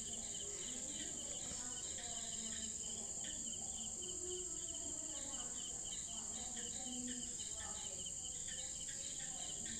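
Faint, steady chirping of crickets in the background, an even run of short repeated pulses, over a constant high hiss.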